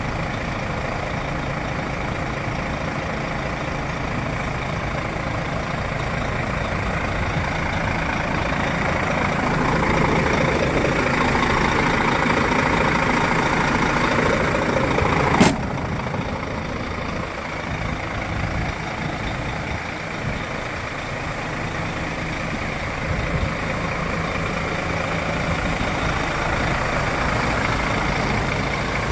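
Iveco Stralis AS440 S50 tractor unit's six-cylinder diesel idling steadily, a little louder for a few seconds midway. A single sharp knock halfway through.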